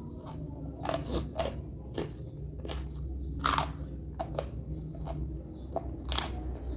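A person biting and chewing crunchy raw vegetables close to the microphone: irregular sharp crunches, the loudest about three and a half and six seconds in.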